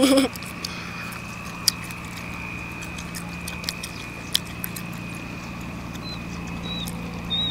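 A person chewing steamed mud clams, with scattered sharp mouth and tongue clicks, over a steady high tone and a low hum. A few short high chirps come near the end.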